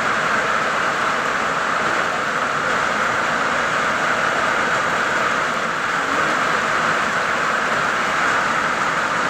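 Heavy rain falling hard, a steady unbroken hiss.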